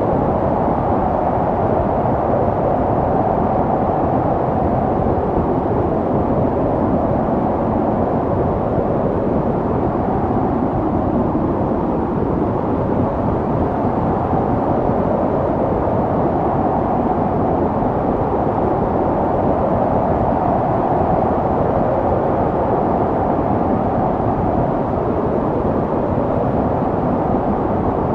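Snowstorm wind: a steady, low rushing noise that swells and eases slowly.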